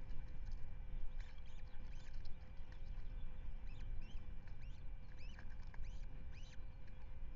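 Osprey giving bursts of short whistled chirps, each rising and falling in pitch, over a steady low rumble.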